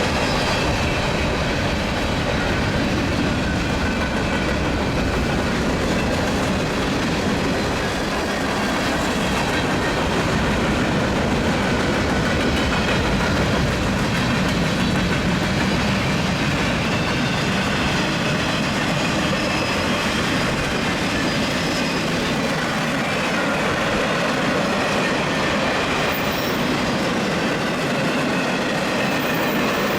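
Union Pacific mixed freight train's cars rolling past with steady wheel-on-rail noise and faint thin high squealing tones.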